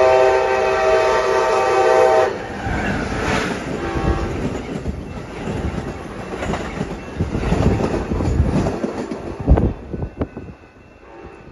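Train horn blowing a loud chord for about two seconds, then the train passing with its wheels clattering over the rails. The passing noise fades out near the end.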